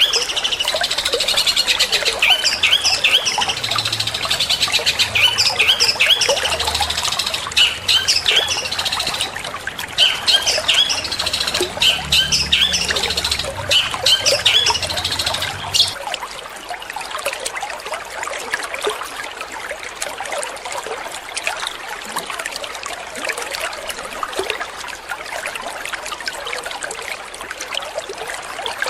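Long-tailed shrike singing a quick run of sharp, repeated high calls over a steady trickle of running water. The bird stops a little past halfway and only the trickling water goes on.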